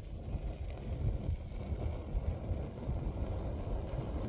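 Wind buffeting the microphone, an irregular low rumble.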